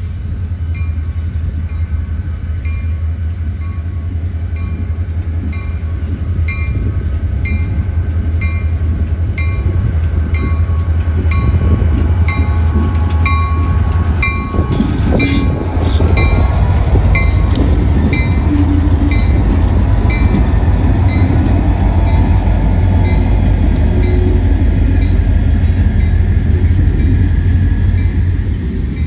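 A train passing with a heavy, steady rumble that grows louder through the first half. Throughout, a grade-crossing bell dings about twice a second.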